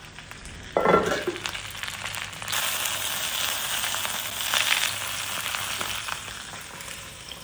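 Banana-leaf-wrapped eggplant parcels sizzling in hot oil in a cast-iron pan as they are turned over with tongs. The sizzle gets louder from about two and a half seconds in and eases off near the end, with a short clunk about a second in.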